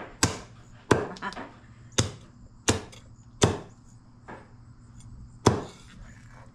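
A blade chopping through raw chicken, about seven sharp chops at irregular intervals, the last one after a pause of about two seconds.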